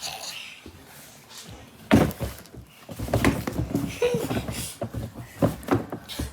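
Knocks and thumps of things being handled and set down, the loudest about two seconds in, with more light knocks and clicks over the following few seconds.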